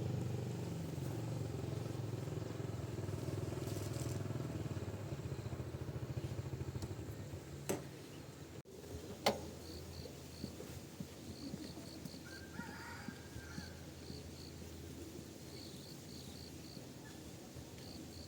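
A motor engine running steadily, then fading out about seven or eight seconds in. After that, faint high chirps come in short repeated groups.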